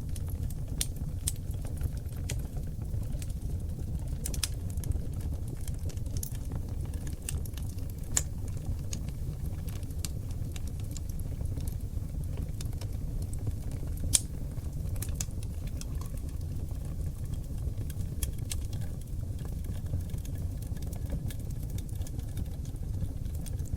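Oak-log wood fire burning in a fireplace: a steady low rumble of flames with scattered crackles and pops, the sharpest pop a little past halfway.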